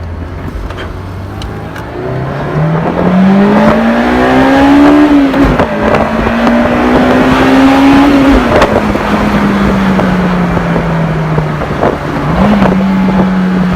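Car engine pulling under acceleration, its pitch climbing, dropping at a gear change about five seconds in, and climbing again. It then eases off and the pitch sinks slowly, with a short rise again near the end.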